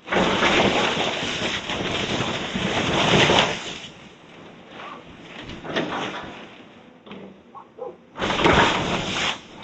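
Demolition debris crashing and crunching during a house teardown: a long, loud crash lasting about four seconds, scattered knocks, then a second loud crash about eight seconds in.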